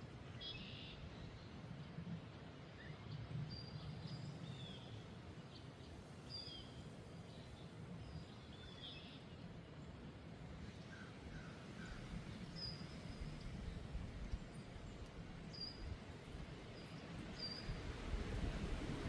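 Outdoor wind ambience, a steady low rush of noise, with scattered short high bird chirps, some sliding down in pitch. The wind noise swells near the end.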